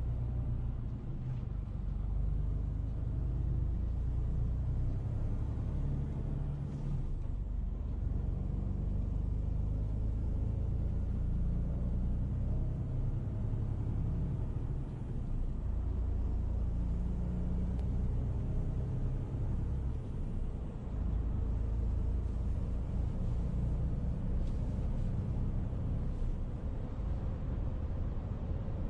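Steady low rumble of a vehicle on the move, with no breaks.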